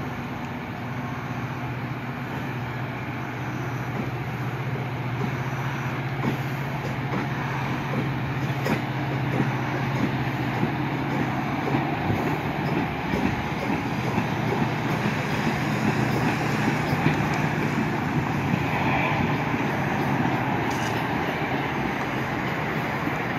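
Metra diesel commuter train pulling out of the station: a steady low engine drone under rolling wheel-and-rail noise with scattered clacks, getting louder through the middle.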